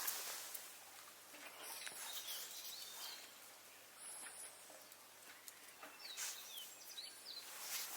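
Small birds chirping in short calls a few times, faint, with scattered sharp crackles from a twig fire burning in a small wood stove.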